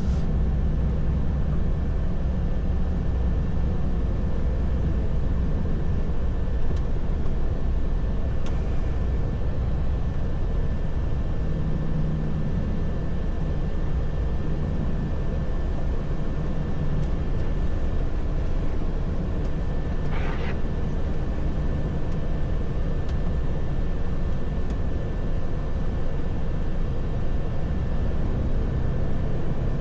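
Heavy truck's engine and tyres droning steadily inside the cab while driving, with a thin steady whine above it and one short rasp about two-thirds of the way through.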